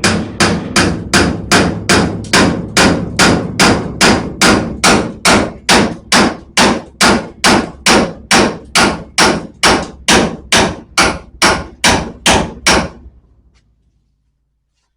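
Hammer blows on a sheet-steel repair panel, steady and evenly spaced at a little over two a second, bending the notched edge of the spare-wheel-well patch into shape. The blows stop about two seconds before the end.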